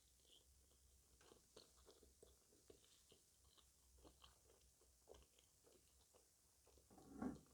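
Faint close-up mouth sounds of someone chewing and crunching sweets: a run of small irregular clicks and crackles, with one louder crunch near the end.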